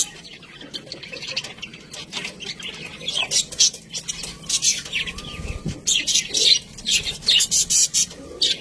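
Budgerigars chirping and chattering in a stream of short, high notes, thinner for the first couple of seconds and then coming in dense runs.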